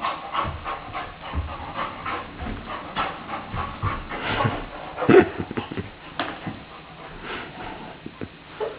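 Saint Bernard puppy panting in rapid, irregular breaths, with a louder burst about five seconds in.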